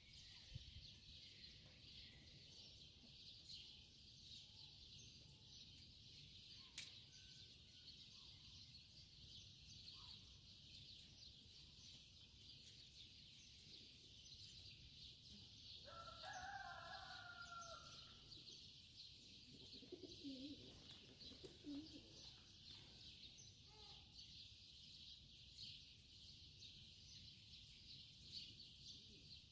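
Near silence with a faint steady high hiss, and a faint bird call lasting about two seconds a little past halfway.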